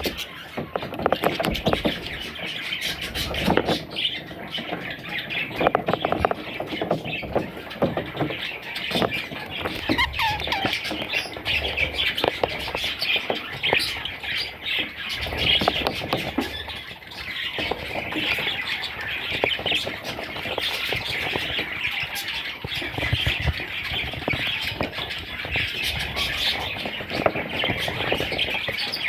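Budgerigar chicks calling, a dense unbroken chatter of high squeaky calls, with frequent short clicks and knocks mixed in.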